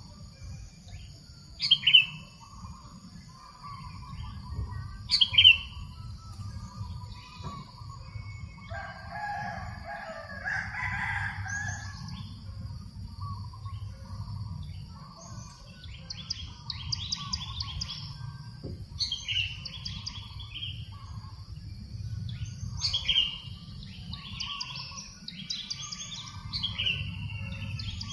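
Birds calling and chirping: three loud, sharp, falling calls in the first six seconds, a rooster crowing once about nine seconds in, then a busy run of quick chirps in the second half. A steady low rumble of breeze on the microphone runs underneath.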